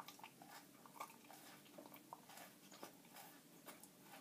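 Faint chewing of a crunchy Nature Valley granola bar, with small scattered crunches and mouth clicks.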